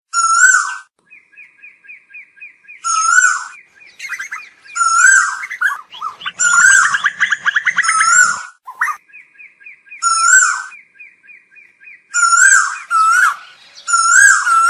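Asian koel calling: short, loud notes repeated every second or two, with a fast run of higher ticking notes between them and a dense jumble of calls in the middle.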